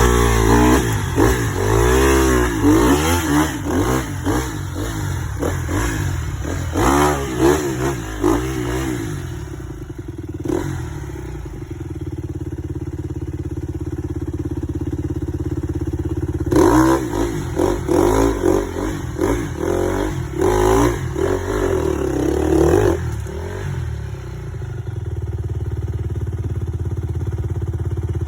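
Dirt bike engine revving up and falling back in bursts over rough ground, settling to a steadier, lower running between the bursts.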